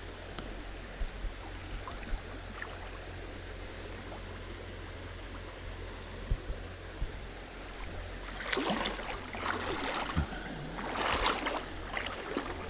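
Creek water running steadily, then from about two-thirds of the way in, a run of irregular splashing, sloshing steps as someone wades through shallow water.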